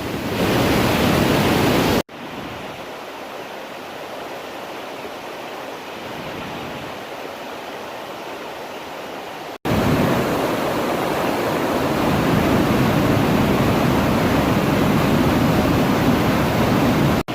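Waterfall swollen with floodwater, rushing steadily. The sound drops abruptly to a quieter level about two seconds in and comes back up as loud just before ten seconds.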